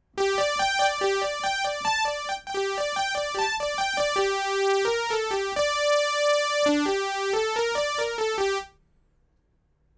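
Sawtooth-wave synth lead from the Bismark bs-16i app, playing a quick melody of bright, buzzy single notes with one longer held note about two-thirds through. The playing stops shortly before the end.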